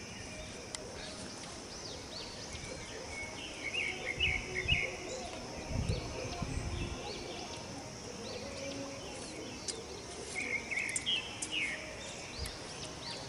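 Outdoor ambience: a bird chirping in two bursts of quick notes, over a steady high hiss, with a couple of dull low thumps around the middle.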